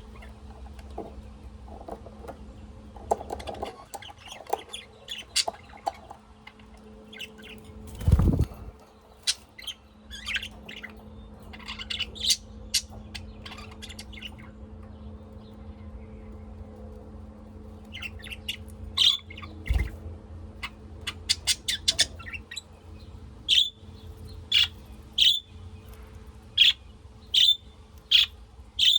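Pet cage birds chirping in short, sharp calls, with a quick run of chirps about two-thirds through and evenly spaced single chirps near the end. There is a dull thump about eight seconds in and a smaller one near twenty seconds, over a faint steady hum.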